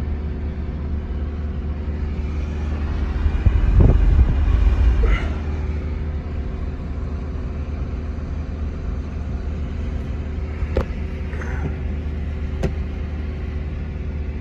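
Steady low rumble of a running vehicle engine, swelling louder about four seconds in, with a couple of sharp clicks near the end.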